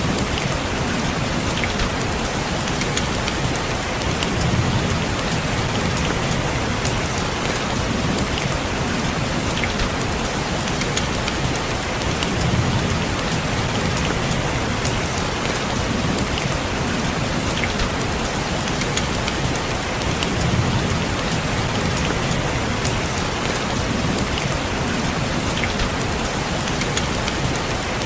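Steady rain falling on a window, with fine drop ticks over an even hiss. A low rumble swells and fades every few seconds.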